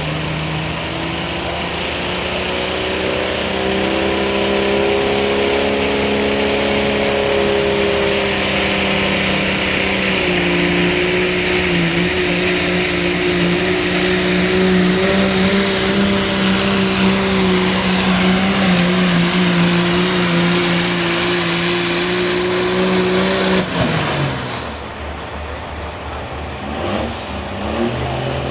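Diesel pulling truck's engine held at high revs under heavy load, climbing in pitch over the first few seconds and then holding steady with a strong hiss over it. About 24 seconds in, the revs drop suddenly as the driver comes off the throttle, and the engine settles to a lower, quieter run.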